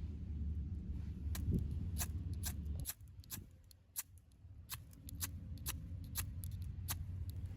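Wood campfire crackling: irregular sharp pops and snaps, about fifteen over several seconds, over a low steady rumble.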